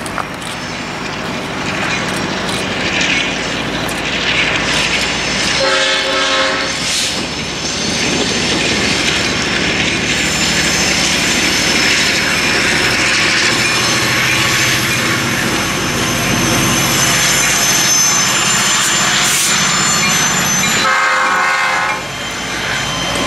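CP Rail SD40-2 diesel locomotive, with its 16-cylinder two-stroke EMD engine, hauling a train of tank cars toward and past the listener, the train running steadily. Its air horn sounds briefly about six seconds in and again for a second or two near the end. High wheel squeal runs through the middle.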